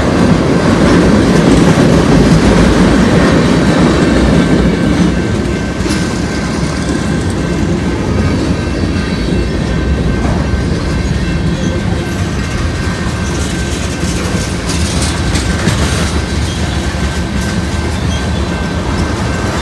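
A train rolling past on the tracks, a steady loud rumble of the cars that is strongest in the first few seconds, then eases a little.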